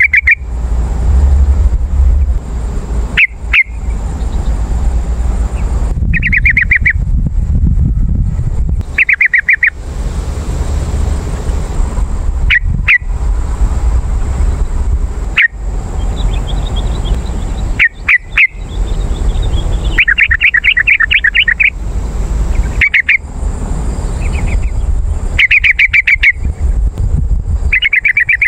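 Yellow-vented bulbul calling: short bursts of rapid, bubbly chattering notes repeated every few seconds, over a steady low rumble.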